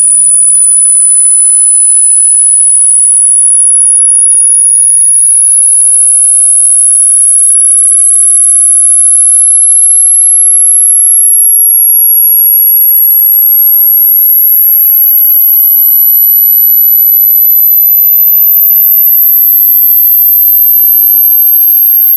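A loud, very high-pitched electronic sine tone, held at a steady level and rising slowly in pitch throughout, with faint whistling tones gliding up and down beneath it.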